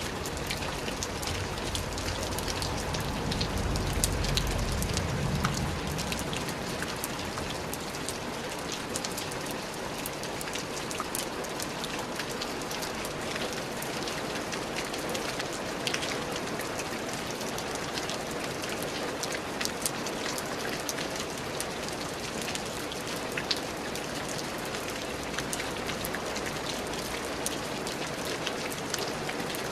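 Steady rain falling, with many sharp individual drop hits over an even hiss. A low rumble swells and fades about two to six seconds in.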